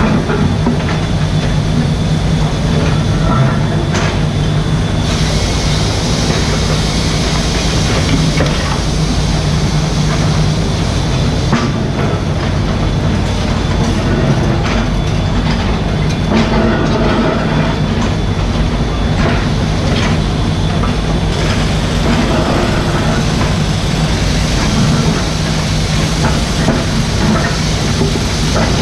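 Mini excavator's diesel engine running steadily at working revs, with a few short knocks and scrapes from the machine at work.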